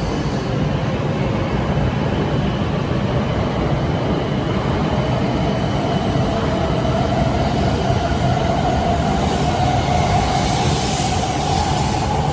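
Shinkansen train running: a steady rumble with a whine that rises slowly in pitch and grows louder from about halfway.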